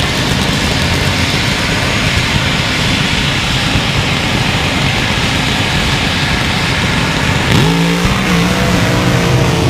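Loud, steady roar of drag-racing engines. About three-quarters of the way through, an engine note rises sharply, then holds steady.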